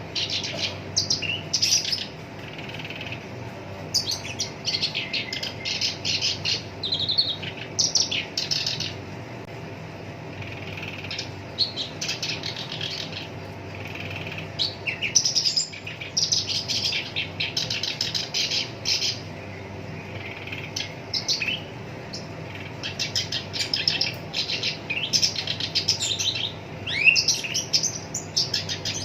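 Black-browed reed warbler singing: bursts of rapid, harsh chattering phrases a second or two long, with short gaps between them and two longer pauses. A steady low hum runs underneath.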